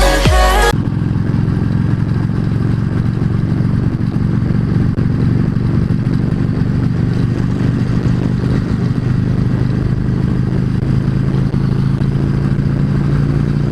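Yamaha V Star 650's air-cooled V-twin engine running at a steady cruising speed while the motorcycle is ridden on the highway, its engine note holding even throughout.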